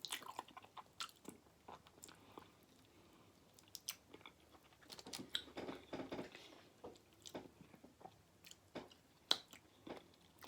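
A person chewing and biting food close to the microphone: faint, irregular mouth clicks and soft wet sounds scattered through.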